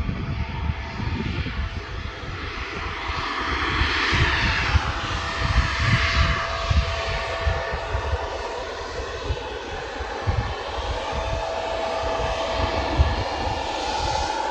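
Airliner engines running steadily, a rushing whine with a held tone, swelling loudest around four to six seconds in, over an irregular low rumble.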